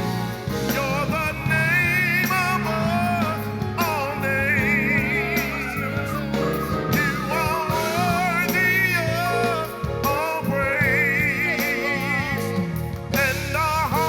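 Live gospel worship music: a voice singing long held notes with heavy vibrato over steady band accompaniment.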